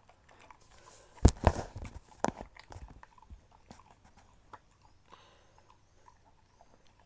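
A dog chewing a meat-sausage treat, with a few sharp clicks and knocks a second or two in, then softer scattered clicking.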